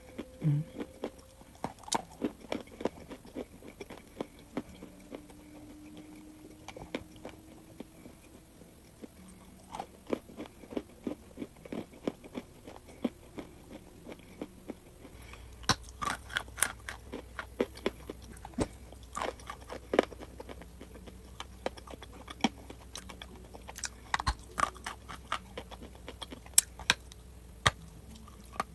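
Crunchy chalk being bitten and chewed close up: irregular sharp crunches and crackles, coming thicker and louder from about halfway through.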